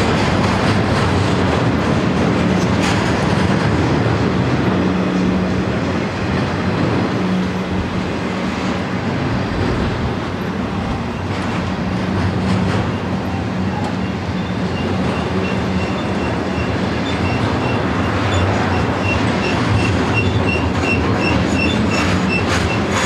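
Double-stack intermodal freight train rolling past at close range: a steady rumble and clatter of steel wheels on the rails. In the last several seconds a short high chirp repeats about twice a second.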